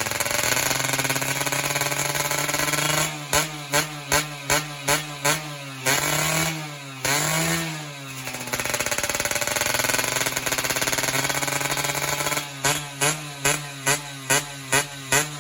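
Yamaha F1ZR two-stroke engine through an El9 Racing full-press racing exhaust, idling steadily and then blipped on the throttle in quick runs of two to three revs a second. In between come two slower revs that rise and fall, and another run of quick blips follows near the end.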